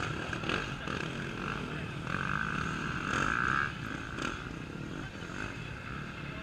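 Off-road racing motorcycle engines running and revving.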